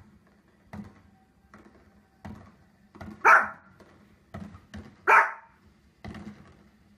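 A small fluffy dog barking: two loud, sharp barks about three and five seconds in, with fainter short sounds in between.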